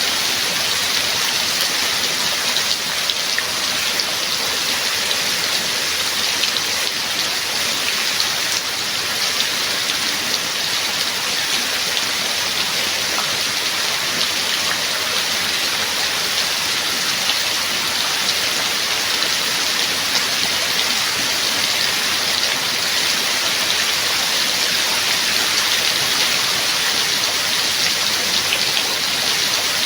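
Steady rain falling, a continuous hiss of drops with fine individual drop ticks throughout.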